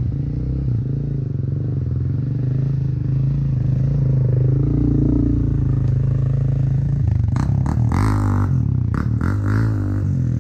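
Motocross bike engine running steadily at idle, its note wavering and shifting in the last few seconds.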